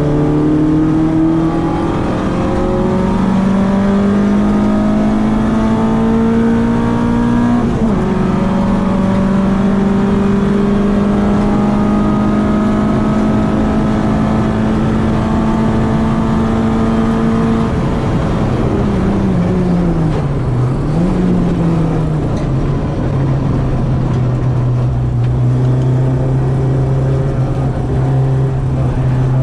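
Citroen AX 8-valve four-cylinder on twin Weber 40 carburettors pulling hard. The revs climb, drop with an upshift about 7.5 s in, then climb again. Around 18 s the driver lifts off and the pitch falls, with one short rise and fall around 21 s, before the engine settles at a steady lower pitch.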